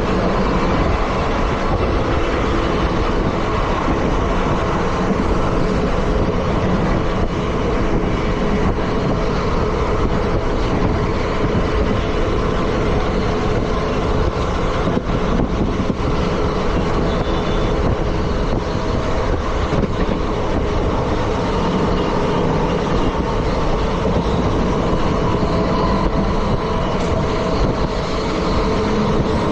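Indian Railways ICF passenger coaches running along the track: a steady, loud rumble of wheels on rails with running noise from the coach.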